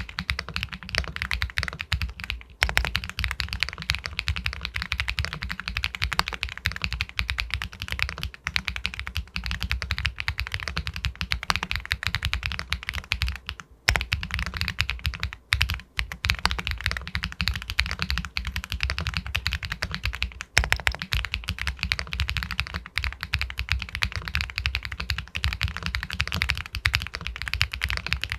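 Fast, continuous typing on an Epomaker Galaxy 80 Pro aluminium mechanical keyboard with White Jade linear switches. The keystrokes come in dense runs, broken by brief pauses about two and a half, fourteen, sixteen and twenty seconds in.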